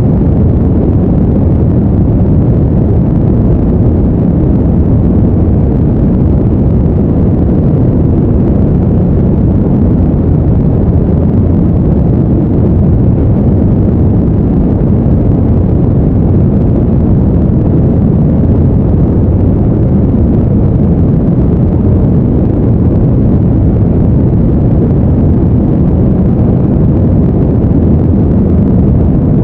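Steady, deep, featureless noise of the brown-noise kind, a constant rumbling hush with no rhythm, tones or breaks.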